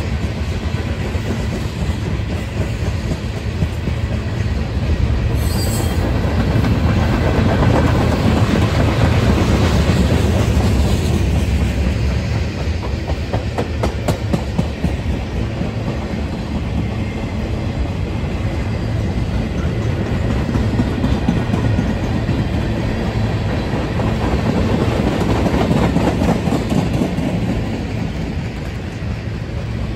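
CSX freight train of gondolas, tank cars and boxcars rolling past, a steady rumble of wheels with clickety-clack over the rail joints. It swells louder twice, near the middle and again toward the end.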